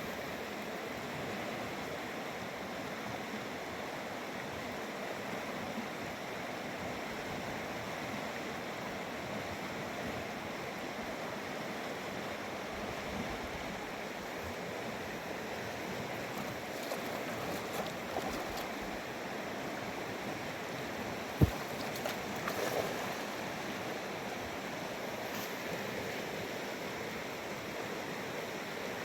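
Fast mountain river rushing steadily past, with a single sharp knock about two-thirds of the way through.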